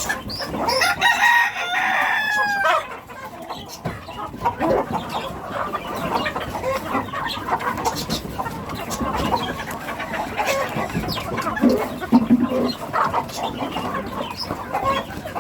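A rooster crows once near the start, a long call with a falling end, over the continuous clucking and chatter of a flock of chickens.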